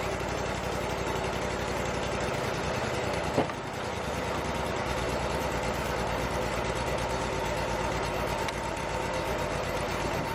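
Wood-Mizer LT35 portable sawmill's engine running at a steady idle, with a single sharp knock about three and a half seconds in.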